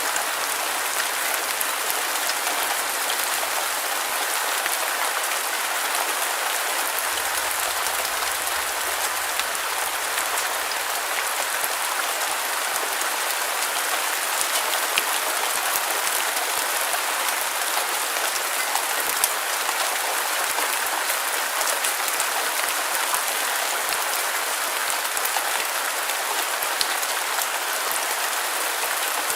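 Steady rain falling, an even hiss of dense patter with scattered sharper drop ticks. The bass has been cut away, as in a white-noise sleep track.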